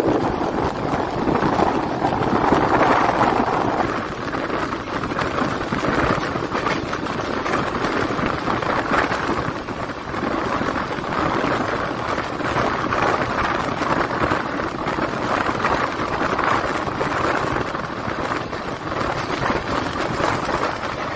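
Steady rushing noise of an Indian Railways passenger train running at speed, with wheels on the rails and air buffeting the microphone held at the coach's side. It is louder for the first few seconds, then carries on steadily with small swells.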